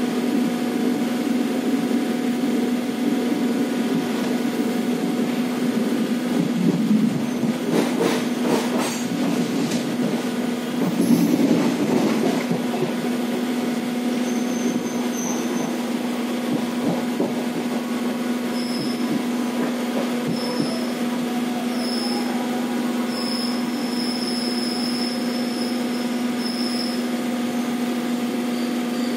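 Indian Railways passenger train running, heard from an open coach doorway: a steady rumble with a constant low hum and wheels on rail. There are a few clicks about eight seconds in and a louder rattle around eleven seconds. Faint high-pitched beeps repeat through the second half.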